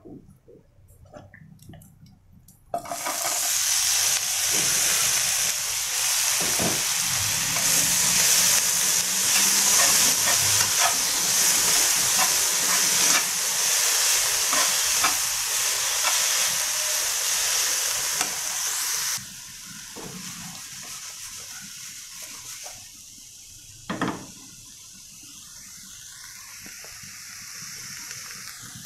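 Stir-frying in a non-stick wok: loud sizzling of food in hot oil starts suddenly about three seconds in, when the wok fills with tarap pieces, with a metal spatula scraping and tapping through it. About two-thirds of the way through the sizzle drops to a much quieter hiss, and there is one sharp knock near the end.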